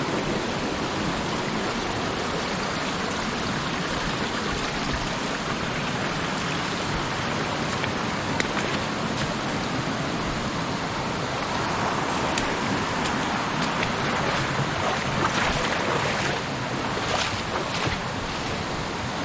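Mountain stream rushing over rocks, a steady wash of water noise, with a few short clicks toward the end.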